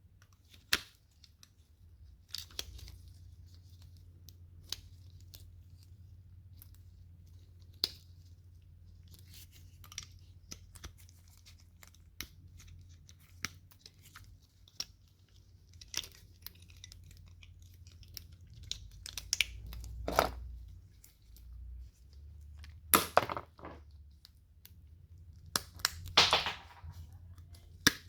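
Hand dismantling of microwave oven parts: scattered clicks and knocks with short tearing and scraping bursts, the loudest three near the end, over a low steady hum.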